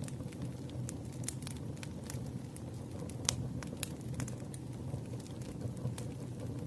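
Campfire crackling: irregular sharp pops and snaps over a steady low rumble of burning wood, one pop louder than the rest about three seconds in.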